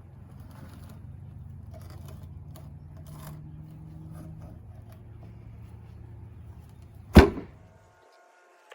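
A low, steady mechanical hum, then a single loud knock about seven seconds in, after which the sound cuts off abruptly.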